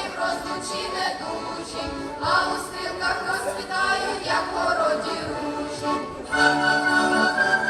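Ukrainian folk ensemble performing Boyko kolomyikas: group singing with instrumental accompaniment. About six seconds in, the music turns louder with long held notes.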